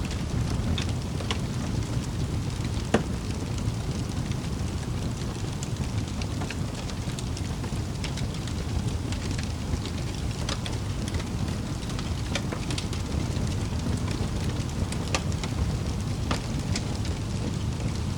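Wood fire crackling in a fireplace: a steady low rumble of burning with irregular sharp pops and snaps scattered throughout, one louder pop about three seconds in.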